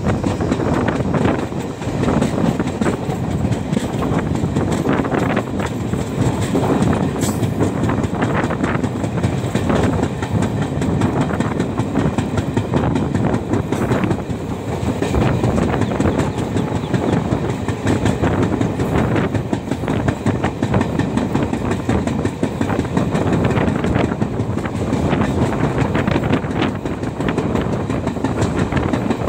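Passenger train running at speed, heard from on board: a steady rumble of the coaches with the wheels clattering irregularly over rail joints.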